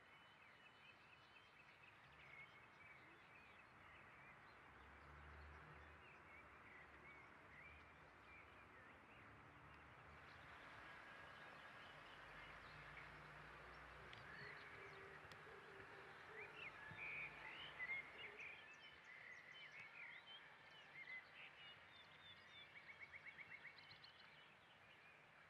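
Faint outdoor background hiss with small birds chirping and twittering, busier in the second half, including a quick trill of rapid notes near the end.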